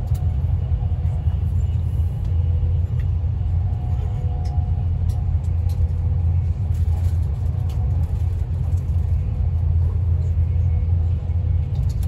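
Steady low rumble of an electric passenger train running at speed, heard from inside the carriage, with a faint steady hum above it.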